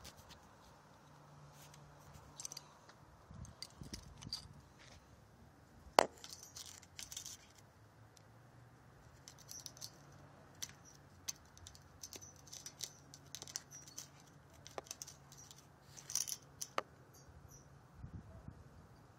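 Scattered light clicks and small rattles over a faint steady low hum, with one sharper click about six seconds in.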